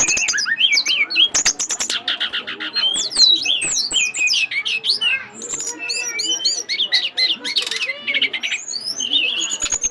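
Caged songbird singing nonstop at full intensity: fast buzzy rattling trills mixed with rapid slurred chirps and whistled notes.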